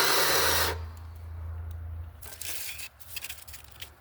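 Battery-powered mini chainsaw cutting briefly through a branch for under a second, its motor hum carrying on and dying away about two seconds in. Then scattered snaps and rustling of cut branches.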